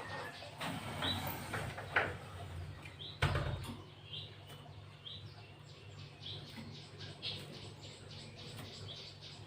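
Gelatik batu (cinereous tit) chirping: short high notes repeated every half second or so, with scattered light clicks and a knock about three seconds in, over a low steady hum.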